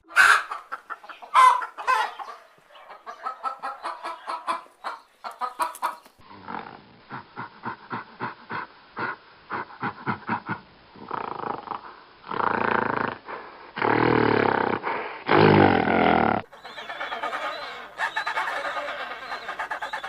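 Chickens clucking in quick runs of short clucks, broken by several louder, longer calls lasting about a second each.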